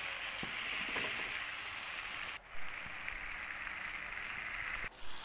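Chili and spice paste sizzling in hot oil in a wok, with a few faint spatula scrapes. The sizzle cuts off abruptly about two and a half seconds in and again near the end.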